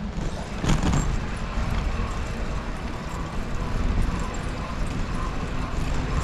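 Steady rolling noise of a bicycle ride: low rumble of tyres and wind on the microphone, with one sharp knock about a second in, like the bike hitting a bump.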